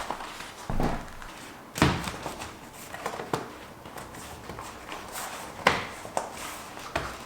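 Knocks and clicks of bicycle parts and tools being handled during a bike build: a handful of sharp knocks, the loudest about two seconds in and just before six seconds.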